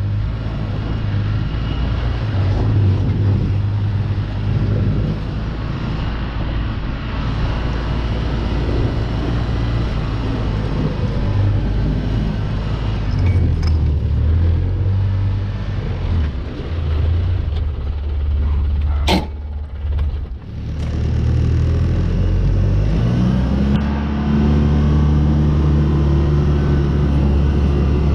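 A motor vehicle's engine running steadily with a low hum. About two-thirds of the way through there is a short break with a sharp click, then the engine speeds up, its pitch rising.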